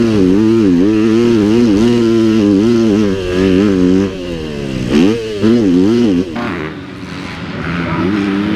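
A dirt bike engine at race pace, its pitch rising and falling over and over as the throttle is worked. The engine note drops away about four seconds in, comes back in two quick revs, then fades out near six and a half seconds.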